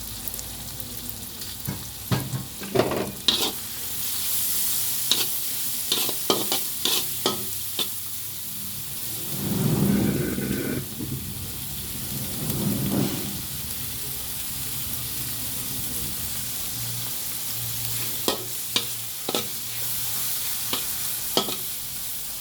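Frozen mixed vegetables, onion and garlic sizzling in hot oil in a pan, with a steady hiss. A spatula stirs them, clicking and scraping against the metal many times, and the sizzle swells louder twice near the middle.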